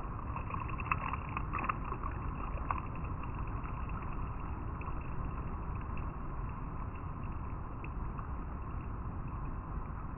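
River water flowing over rocks, a steady rushing with a few brief sharper splashes in the first few seconds.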